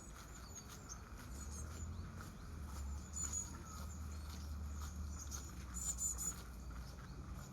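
Small birds giving short, very high-pitched chirps and calls in quick runs, the busiest about three and six seconds in, over a steady low rumble.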